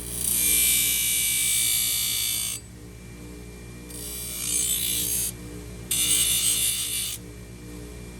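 A horse's hoof being scraped with a farrier's tool in four strokes of harsh scraping: a long one of about two and a half seconds, then two shorter ones about four and six seconds in, and a fourth starting near the end. A steady low hum runs underneath.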